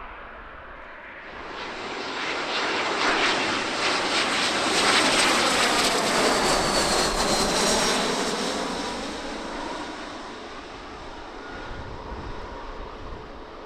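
Airliner passing close by: engine noise swells up, peaks for a few seconds with a faint falling whine, then fades away, leaving a low rumble.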